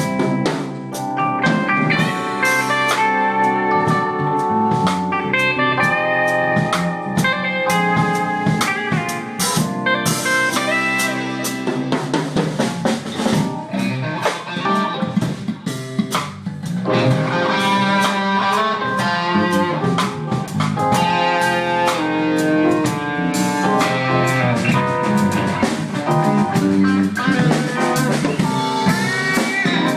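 Live band playing an instrumental blues-rock number, with lead electric guitar over bass and a drum kit.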